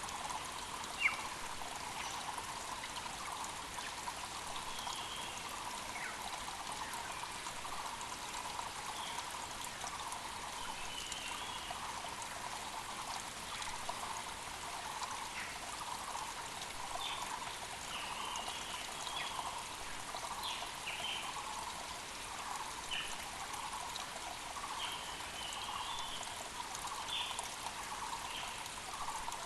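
A mountain creek runs steadily under a long series of evenly repeated low notes, typical of a Muller's (Taiwan) barbet calling, while other small birds give short, higher chirps. A single sharp click sounds about a second in.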